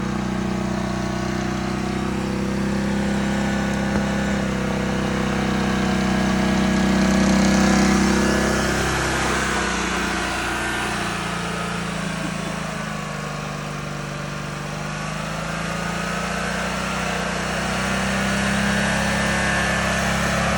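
A custom lawn mower's engine running under load as it is driven. Its note grows louder to a peak about seven or eight seconds in, drops in pitch and loudness around the middle, then rises again.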